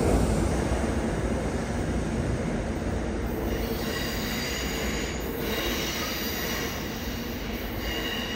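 MBTA commuter rail train rolling away from the platform, its steady rumble slowly fading. A high steel-wheel squeal sets in about halfway through as it pulls away.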